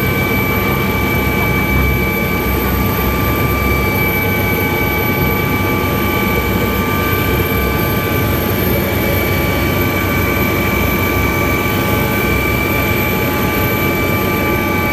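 Helicopter running: a loud, steady engine and rotor noise with a high, constant whine. It cuts off abruptly at the very end.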